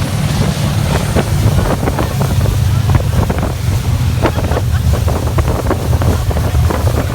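Vintage Riva wooden motorboat running under way, its inboard engine a steady low drone, with frequent short slaps of the hull on the water and wind buffeting the microphone.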